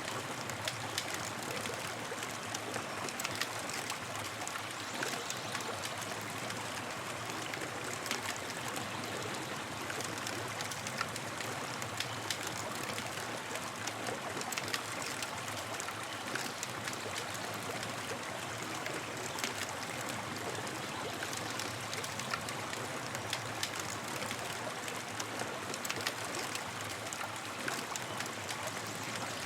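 Campfire burning with a steady hiss and frequent irregular crackles and small pops from the wood.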